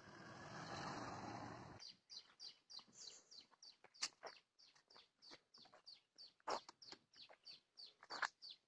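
A car driving past, a rising rush of tyres and engine that cuts off abruptly about two seconds in. Then a bird calling over and over in quick, high, downward chirps, about four a second.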